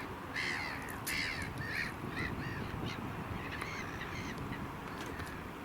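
A bird calling in a rapid series of short calls, about three a second, fading after about three seconds, over steady low background noise.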